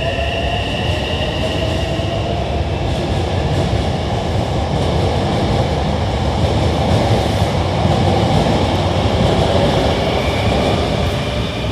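Hankyu 9000-series electric train pulling out and accelerating, its traction motors whining in tones that rise in pitch over a steady rumble of wheels on rail that slowly grows louder.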